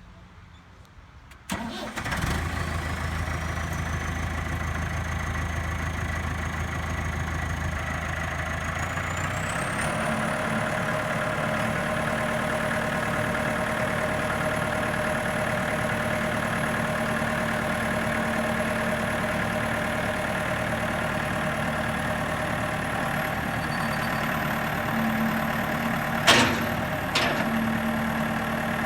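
The Perkins 4.0 four-cylinder diesel of a 1998 Case IH CX90 tractor starts about a second and a half in and then runs steadily. A high whine rises over the engine sound, and around ten seconds in the engine note steps up. A single sharp clack comes a few seconds before the end.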